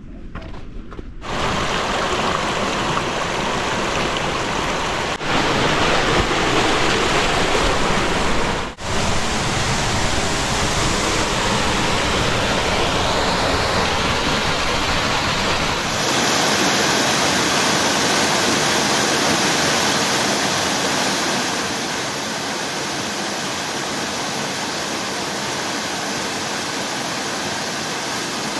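Rushing water of a canyon waterfall about 15 to 20 feet tall, pouring and splashing in a steady roar that starts about a second in. The sound breaks off abruptly a few times and changes character, as between spliced takes.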